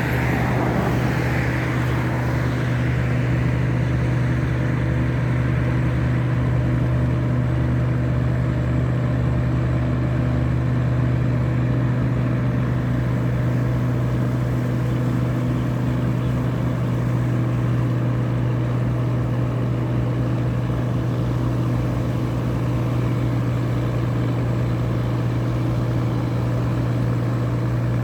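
A tugboat's diesel engine running steadily under way, a deep even drone with no change in speed.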